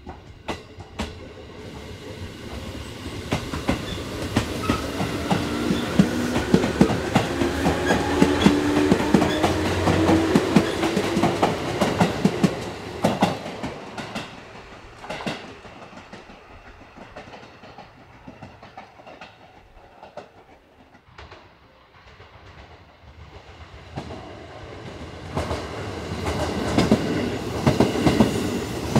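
Electric commuter train pulling away from the platform: its motor whine climbs in pitch as it gathers speed, with wheels clacking over rail joints, then fades away. Near the end another train's wheel clacks grow louder as it approaches.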